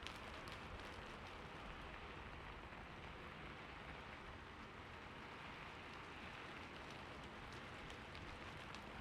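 Faint, steady light rain: an even hiss of falling rain with no rises or breaks.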